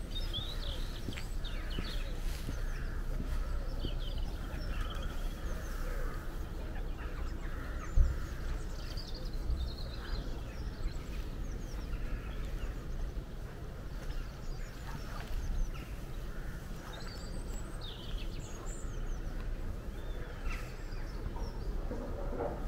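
Songbirds singing outdoors, short chirps and trills scattered throughout, over a steady low rumble. A single thump sounds about eight seconds in.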